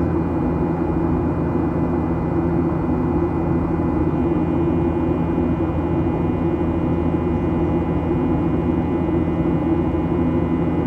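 Steady cabin noise inside a Boeing 737-800 in flight: an even rumble and rush of air from its CFM56 turbofan engines, with several steady humming tones.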